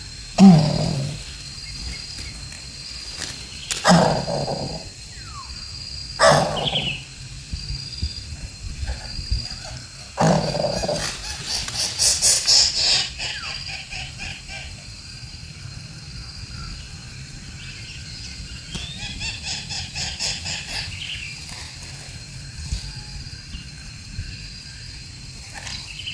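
Four loud animal calls, each sliding down in pitch, spaced a few seconds apart over a steady pulsing insect chirp, with a rapid rattling trill about twelve seconds in.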